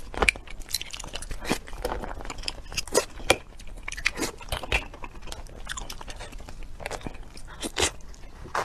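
Close-miked chewing and biting of food: an irregular run of short, sharp crunches and clicks.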